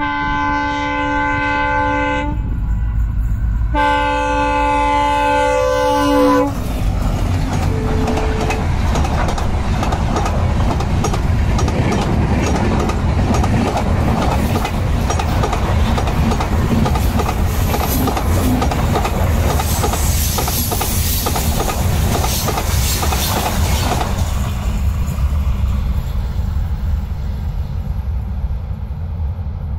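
Several-note air horn of WDM-3A ALCO diesel locomotives sounding two long blasts, then the train rolling past: a steady diesel rumble and the clickety-clack of wheels over rail joints, turning harsher and higher for several seconds in the middle.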